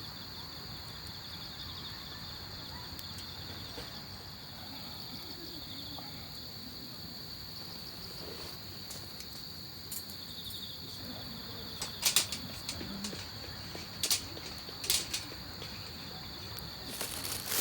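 Crickets chirping steadily in a continuous high pulsing drone. A few sharp knocks stand out about two-thirds of the way through.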